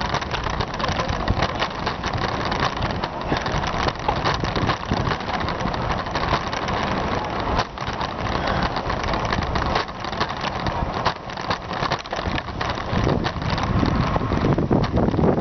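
Steady rushing road noise heard from a moving bicycle: wind on the microphone mixed with the hum of passing motor traffic, with no clear single event standing out.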